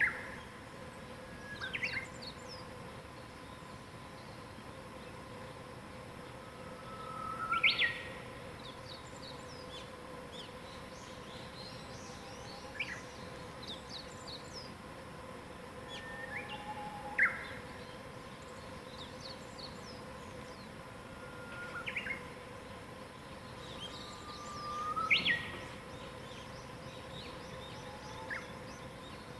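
Wild birds singing at dawn: one bird repeats a loud phrase, a held low whistle ending in a quick high flourish, about every four to five seconds, over fainter high twittering from other birds. A steady faint hum runs underneath.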